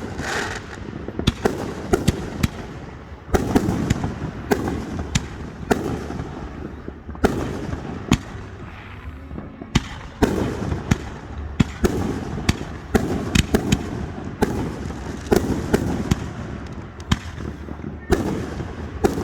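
Fireworks display going off: a steady run of sharp shell bursts and cracks, many of them with a rumbling echo trailing after.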